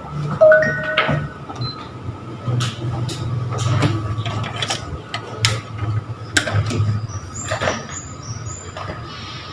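Office copier running with a steady hum and a constant whine, many small clicks, a short two-pitch electronic beep about half a second in and a run of short high beeps near the end.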